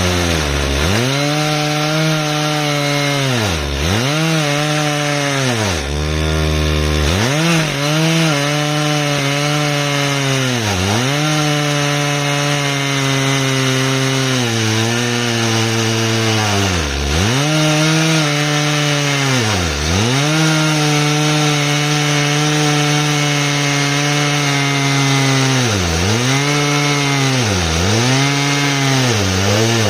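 Stihl MS 881 two-stroke chainsaw running under load in an Alaskan chainsaw mill, ripping lengthwise through an ash log. The engine holds a steady high pitch, and every few seconds it briefly drops in speed and recovers, about ten times.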